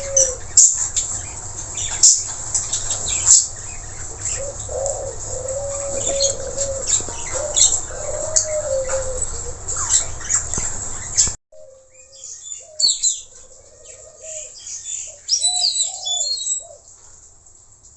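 Long-tailed parakeets (nuri tanau) calling, a dense run of shrill, sharp chirps and squawks. About eleven seconds in the recording cuts abruptly to a quieter one with sparser calls.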